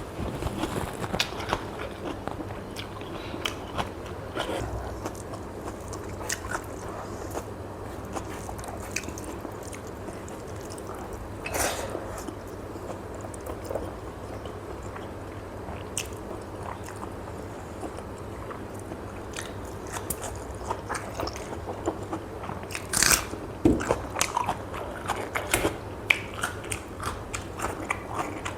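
Close-miked mouth eating sounds: steady chewing with many small crisp crunches. Louder crunchy bites come about halfway through and again near the end.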